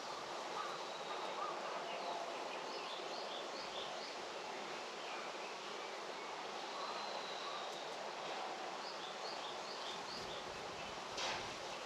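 Rural evening ambience: a steady outdoor hiss with a bird calling in short runs of quick high chirps, twice. A single sharp knock near the end.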